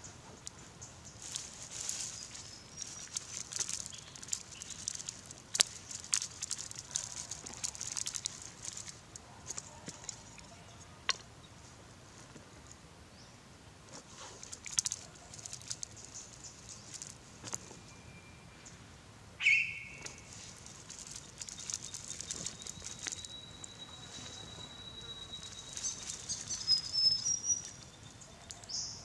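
Birds calling: high chattering, a long steady whistle in the last few seconds and a run of quick chirps near the end, with scattered sharp clicks and snaps.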